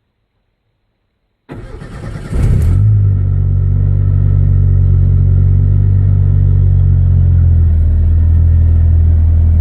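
1988 Ford Ranger's 2.3-litre fuel-injected four-cylinder engine cranked by the starter about a second and a half in, catching within a second and settling into a steady idle. It is kind of loud because the exhaust tailpipe is broken off and not connected to the muffler.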